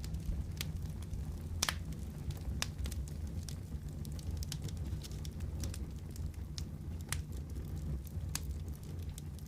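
Fireplace burning with a steady low rumble and irregular crackles and pops from the burning wood, a few louder snaps scattered through.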